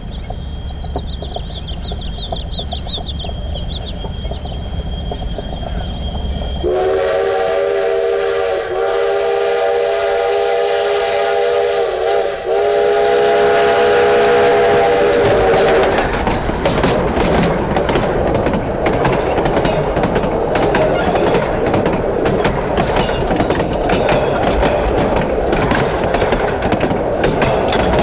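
Durango & Silverton steam locomotive: after a low rumble, its chime whistle sounds a steady multi-note chord for about nine seconds, dipping briefly twice. Then the train rolls overhead, wheels clicking rapidly over the rails.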